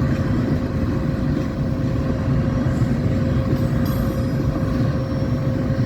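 Road vehicle running steadily: a continuous low rumble with a steady hum through it.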